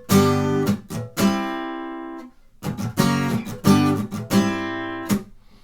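Acoustic guitar strummed in the gallop pattern (down-up-down triplets) on a C chord. Short strokes lead into an accented down-stroke that rings out, in two groups with a pause between them, and a muted stroke near the end damps the strings.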